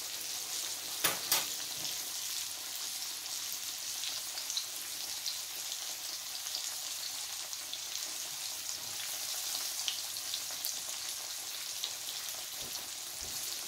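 Breaded pork chop frying in hot oil in a cast-iron skillet: a steady sizzle with scattered small pops and crackles. Two sharp clicks about a second in.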